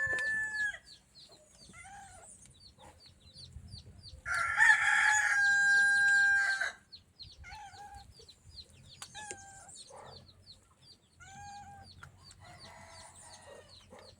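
A rooster crowing: one long, loud call of about two and a half seconds near the middle. Shorter fowl calls and clucks come before and after it, over a steady run of high chirps.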